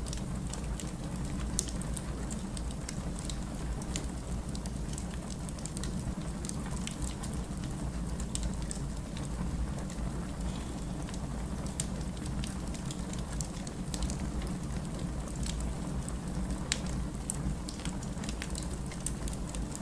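Firewood burning in a fireplace: a steady low rush with irregular sharp crackles and pops.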